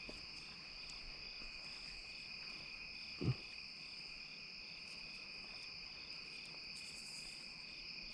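Steady chorus of crickets singing in continuous high-pitched trills, with one brief, louder low sound about three seconds in.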